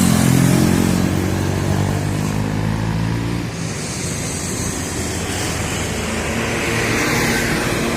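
Heavy truck diesel engine running under load up a steep grade, strongest for the first few seconds and then fading as it passes. A steady hiss carries on through the second half.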